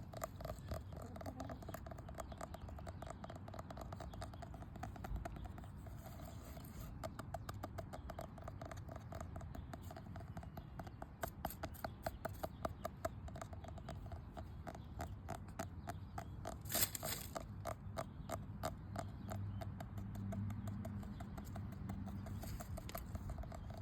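Rapid ASMR tapping on a hard object: a long, even run of light taps, several a second, with one sharper, louder knock a little past the middle.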